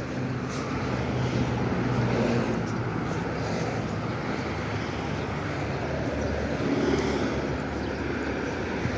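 Street traffic: cars driving past, a steady hum of engines and tyres that swells a little a couple of times.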